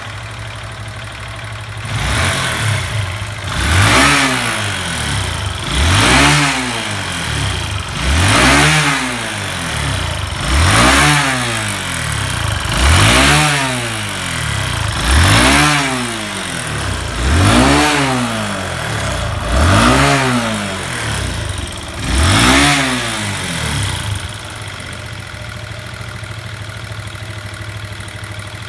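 Honda FTR223 motorcycle's air-cooled single-cylinder four-stroke engine idling, then blipped with the throttle nine times in a row, each rev rising and falling over about two seconds, then settling back to a steady idle near the end.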